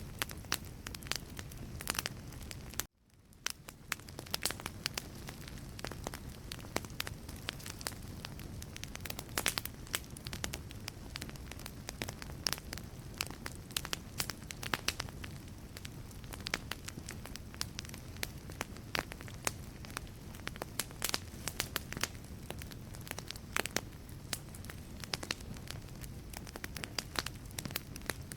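Wood logs burning in a fireplace, crackling steadily with many sharp pops over a low rumble of flame. About three seconds in the sound cuts out abruptly, then fades back up within about a second.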